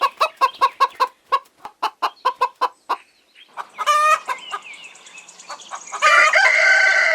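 Hen clucking in quick, even succession, about five clucks a second. After a short pause come a brief squawk and then a long, drawn-out call that starts about six seconds in.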